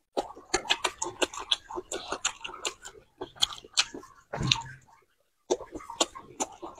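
Close-miked chewing and biting of food: a fast, irregular run of small mouth clicks and crunches, with a brief pause about five seconds in.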